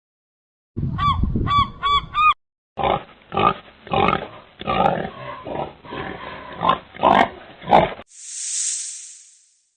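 Animal calls in three clips: a quick run of about six pitched honks, then a long series of low grunts, then one drawn-out hiss that fades away.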